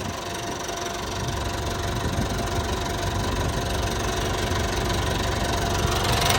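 Cat 416B backhoe loader's turbo diesel engine idling steadily, getting slightly louder toward the end. The engine is running clean with no blow-by.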